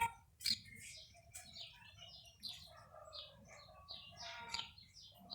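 Birds chirping in the background, many short faint high calls, with a few light clicks mixed in.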